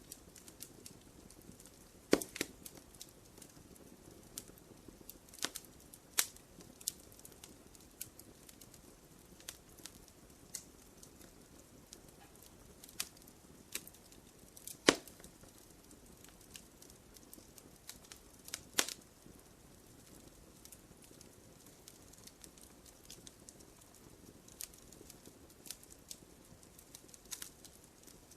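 Wood fire crackling in a fireplace: irregular sharp pops and snaps over a soft steady hiss, with a few louder pops standing out.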